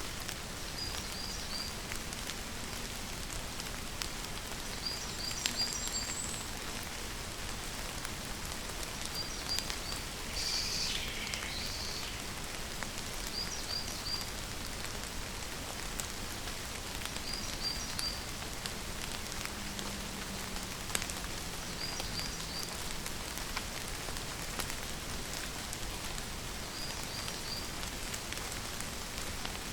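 Steady rain falling. A bird calls through it in short groups of three or four quick chirps every few seconds, with one longer, louder falling call about a third of the way in.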